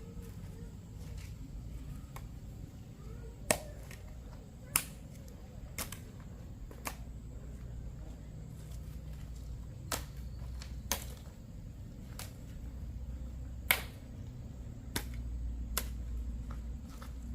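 A series of sharp clicks or knocks, irregularly spaced about a second apart, over a low steady rumble.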